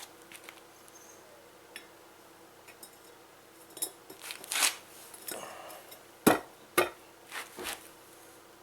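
Metal parts of a hydraulic jack being handled during a seal replacement: scattered clinks, scrapes and knocks, the two loudest about six and a half seconds in, half a second apart.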